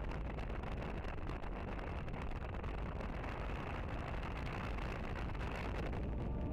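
Suzuki Boulevard motorcycle under way: a steady low engine rumble mixed with wind noise on the action camera's microphone.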